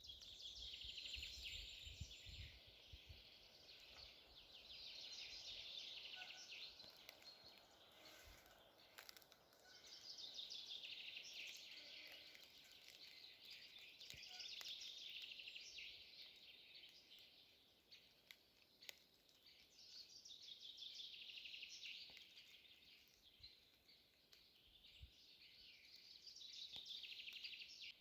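A songbird singing faintly, repeating a phrase of rapid, trilled high notes lasting two to three seconds, about six times with short pauses between.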